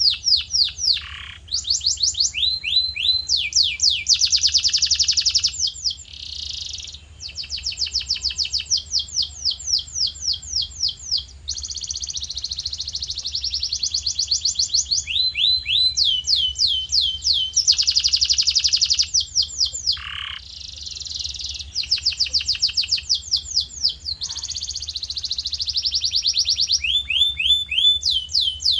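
Male domestic canary in full song: fast rolling trills of rapidly repeated sweeping notes, switching every second or two to a new phrase at a different pitch, with a few brief pauses.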